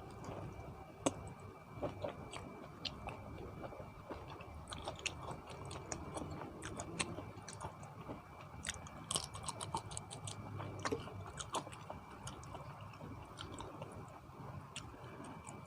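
A person chewing a mouthful of spicy seafood papaya salad close to the microphone, with many small crisp clicks and crunches, densest around nine to ten seconds in.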